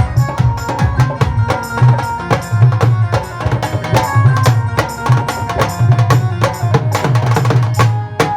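Live band playing an instrumental passage: fast, busy drumming and hand percussion over a held melody line and repeated bass notes.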